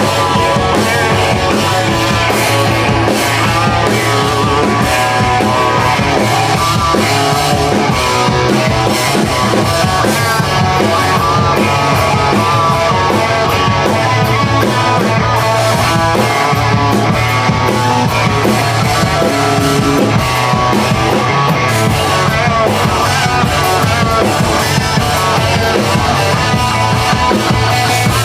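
Rock band playing live, guitar over a drum kit in an instrumental passage with no singing, steady and loud throughout.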